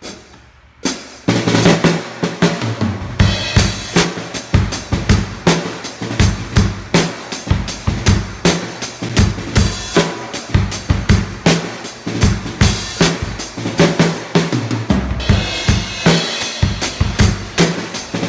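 A ddrum D2 drum kit played with Vic Firth drumsticks, starting about a second in and then keeping up a steady beat of bass drum, snare and cymbals, with a busier stretch near the end.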